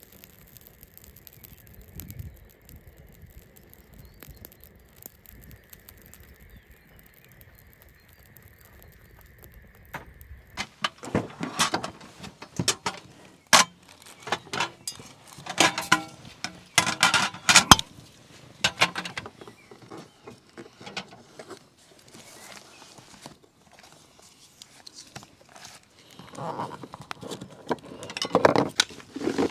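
Irregular clinking and knocking of hard objects being handled, starting about ten seconds in after a faint steady background.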